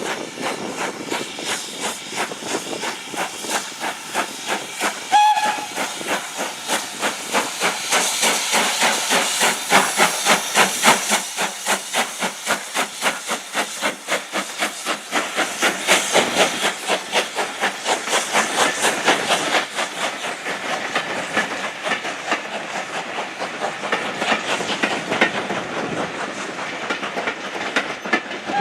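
Steam locomotive running with a steady rhythm of exhaust beats and a haze of steam hiss. A short whistle toot sounds about five seconds in, and another whistle starts at the very end.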